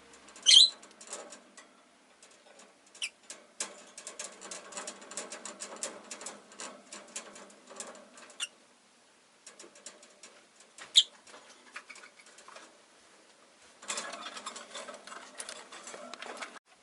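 Rosy-faced lovebirds: a few short, sharp high chirps, the loudest right at the start and another about eleven seconds in, over a running patter of small ticks and scratches that pauses twice.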